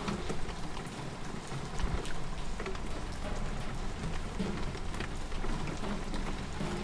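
Steady rain falling, with many individual drops clicking sharply on a surface over a constant hiss and a low rumble.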